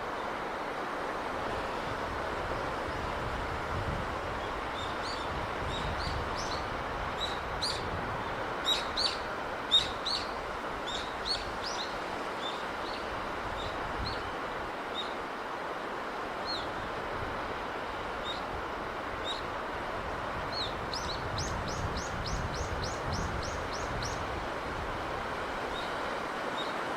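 Steady sea breeze, with small birds chirping over it: scattered chirps from about five seconds in, and a quick run of about a dozen even chirps a little past twenty seconds in.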